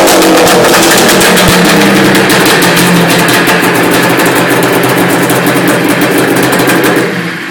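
Arctic Cat Thundercat 900 snowmobile's three-cylinder two-stroke engine running steadily and loudly on a cold start, then dying away about seven seconds in.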